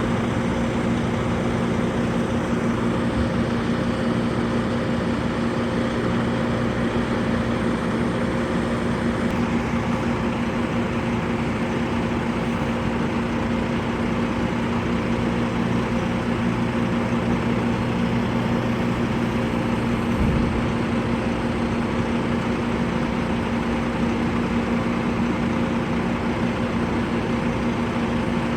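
A motor vehicle's engine running steadily with a constant hum, the same pitch throughout, with a brief slight bump about twenty seconds in.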